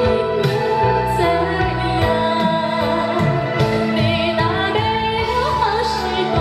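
A woman singing a slow, sad ballad with a Chinese traditional orchestra, a held melody with vibrato over a steady bass accompaniment.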